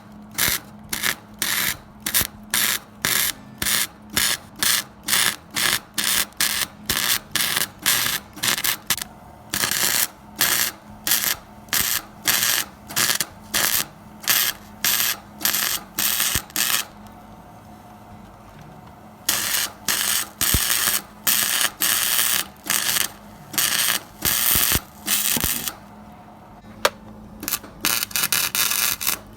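Hobart Handler 140 wire-feed welder running flux-core wire, stitch-welding an exhaust pipe in short crackling bursts of about two a second. After a pause of about two seconds the bursts run longer. A faint steady hum lies underneath.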